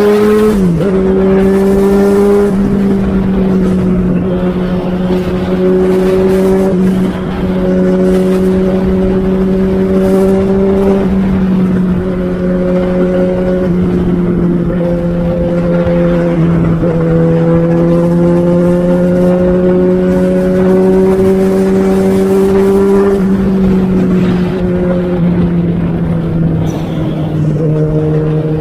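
Yamaha XJ6 motorcycle's inline-four engine and exhaust running loud and steady, its pitch held nearly level with small steps up and down every few seconds.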